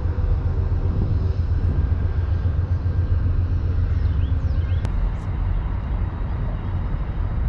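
Steady low outdoor rumble, with the last of a train horn fading out in the first second. A few faint bird chirps come about four to five seconds in, with a single sharp click near the middle.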